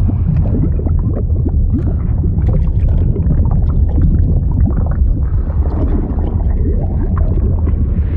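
Continuous water sound effect: a deep, steady rumble with many short rising blips scattered through it.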